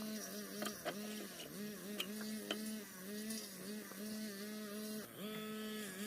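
A motor running with a steady hum that dips briefly in pitch every second or so, as if bogging under load, with a few sharp clicks in the first half.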